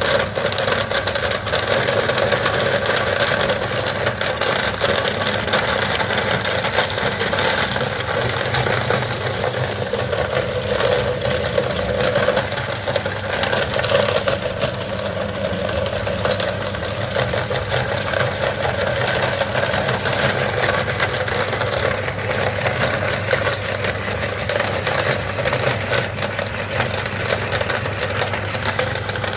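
Electric meat grinder motor running steadily under load, with a dense crackle of matchsticks being ground.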